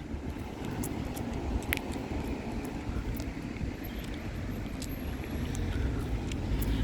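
Outdoor background noise: a steady low rumble, with faint short high chirps and ticks scattered through.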